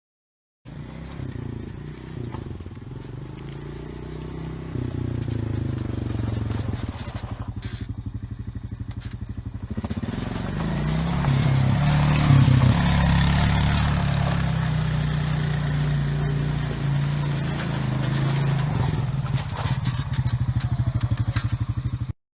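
Honda TRX350 ES quad bike's single-cylinder four-stroke engine running, with even firing pulses. About ten seconds in it grows louder and higher in pitch, then holds there.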